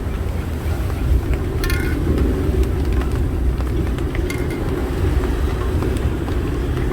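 Strong wind buffeting the microphone, a steady heavy rumble with a few short clicks or knocks on top.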